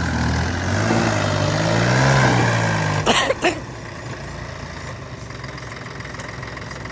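Heavy machine's diesel engine revving up, then dropping back to a steady idle about three seconds in, with two sharp knocks as the revs fall.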